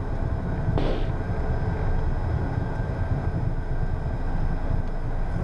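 Cockpit noise of a Beechcraft Premier 1 business jet on the ground after landing: a steady low rumble from the airframe and wheels, with a faint steady whine from its turbofan engines. There is a brief hiss about a second in.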